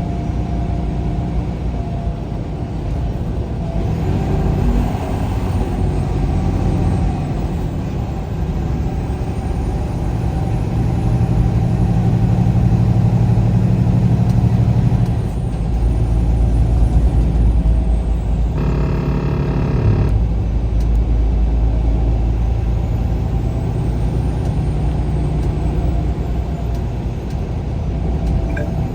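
Vehicle driving at road speed: a steady low engine and road rumble heard from inside the cabin, its low pitch shifting about halfway through. About two-thirds of the way in, a brief pitched tone lasts about a second and a half.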